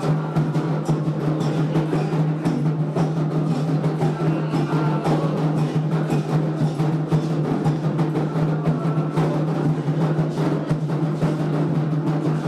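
Candomblé ritual drumming on atabaque hand drums, played as a dense, unbroken rhythm of strokes.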